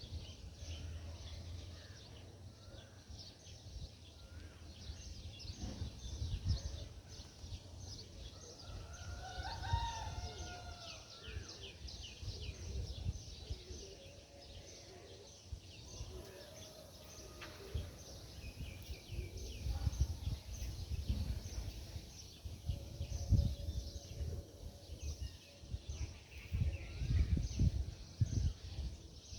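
Outdoor ambience of birds: many quick chirps throughout, with a longer, curving call about ten seconds in, over a low, uneven rumble.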